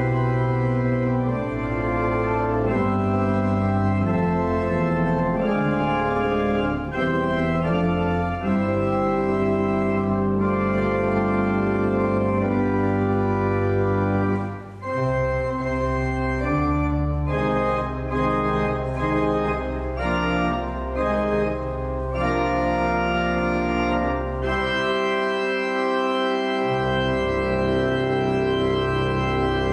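Organ playing a slow piece of sustained chords over held bass pedal notes, which drop out for a couple of seconds near the end.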